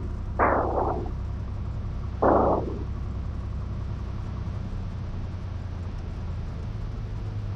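Cessna 182 Skylane's piston engine running at low power during the landing rollout, a steady low drone heard through the cockpit intercom. Two short hissy bursts come about half a second and two seconds in, and the lowest part of the drone drops away about five seconds in.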